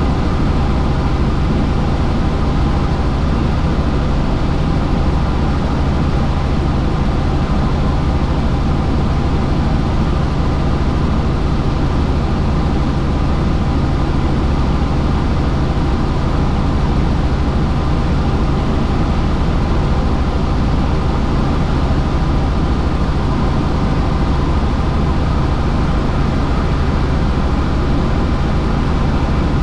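Helicopter in flight: steady, loud engine and rotor noise with a constant low hum and no change in pitch.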